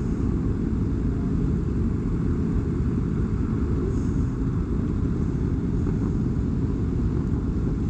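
Motorcycle riding at a steady speed: a steady rumble of engine and wind buffeting the rider's microphone, with no rise or fall in revs.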